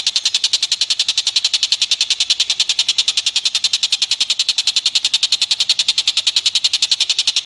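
A recorded animal call: a rapid, even chattering trill of about ten sharp notes a second, held without a break, which cuts off suddenly at the end.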